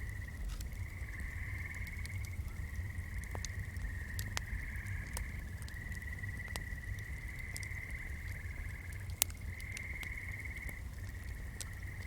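A swamp chorus of frogs trilling: several long, high, even trills that overlap and take over from one another. Scattered sharp clicks and crackles sound through it, one louder than the rest about nine seconds in, over a low steady rumble.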